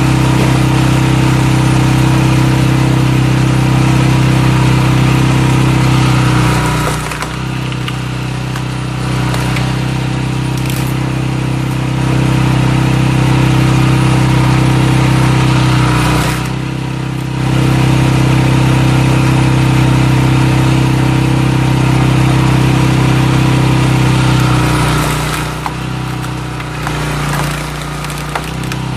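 Small single-cylinder engine of a walk-behind cultivator running steadily as it powers a firewood splitter. Its note sags and drops in pitch a few times, about seven seconds in, around sixteen seconds and near the end, as the engine comes under load.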